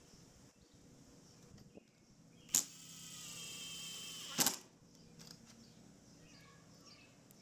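A power drill runs for about two seconds, its pitch sinking slightly as it takes the load, with a sharp click as it starts and another as it stops.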